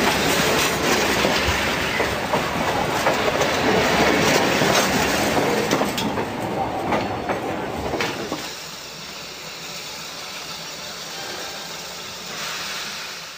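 Passenger coaches of a steam-hauled train rolling past close by, with loud rail noise and scattered clicks from the wheels. The noise drops off about eight seconds in as the last coach goes by, and the train fades into the distance.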